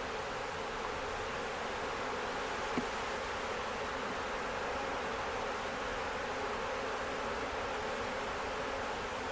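Honey bee swarm buzzing: a steady, dense hum of many bees, with one short click about three seconds in.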